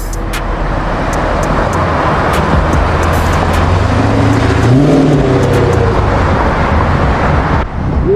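Car driving: steady engine hum under road noise, with a short rise in engine pitch about five seconds in.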